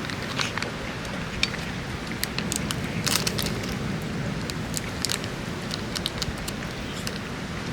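Heavy rain falling: a steady hiss with many irregular sharp drop taps.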